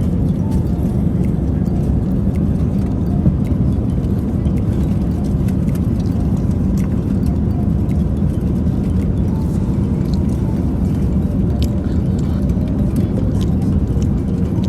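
Steady cabin noise of an Airbus A380 airliner in cruise: a constant low rumble and rush of engine and airflow noise, with a few faint small clicks scattered through it.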